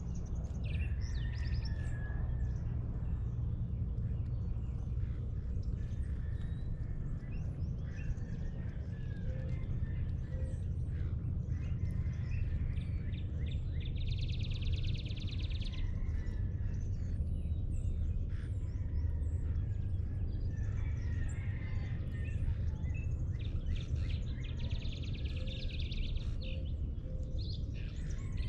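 Several birds calling and chirping at dawn over a steady low rumble. Twice, about halfway through and again near the end, a rapid buzzy trill runs for about two seconds.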